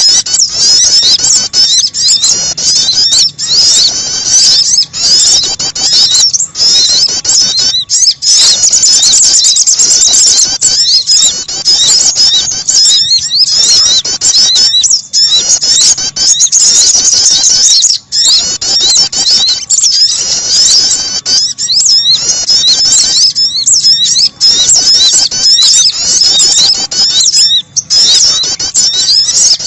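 Bird-lure recording of sogon bird calls mixed with prenjak (prinia) starter calls: loud, dense, high-pitched chirping and twittering with short breaks every second or two.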